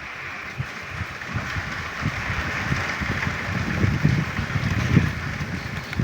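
Frogs croaking as a dense, steady chorus in the rain, with wind buffeting the microphone in low rumbling gusts that are strongest about four to five seconds in.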